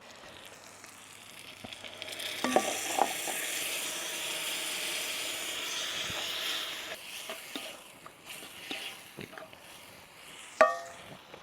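Food sizzling hard in a hot pan. The sizzle swells up about two seconds in and dies down after about seven seconds, with a few utensil clinks. Near the end comes one sharp, ringing clink of metal.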